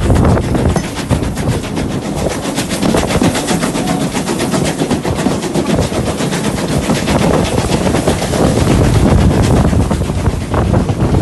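Steam train in motion: a fast, regular beat of about five strokes a second over a steady rumble.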